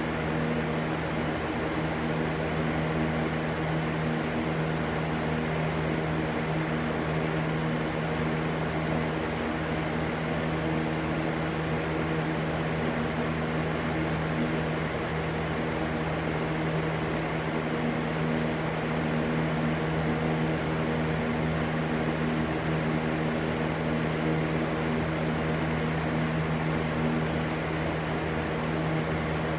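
Electric fan running steadily: a constant rushing white noise over a low motor hum that never changes.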